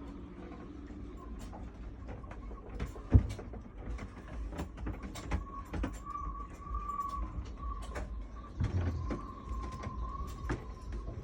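Wind on a sailboat: a thin wavering whistle from the rigging over a steady low rumble, with scattered clicks and knocks from the boat's fittings and one sharp knock about three seconds in.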